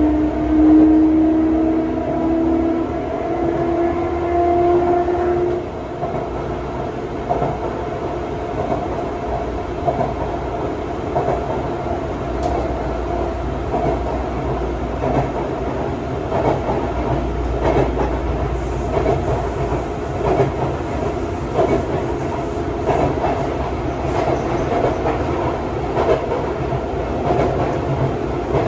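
Sotetsu 9000 series electric train heard from inside the car. During the first five seconds its motors whine upward in pitch as it picks up speed, then the whine stops. After that comes steady running rumble with repeated clacks of the wheels over rail joints.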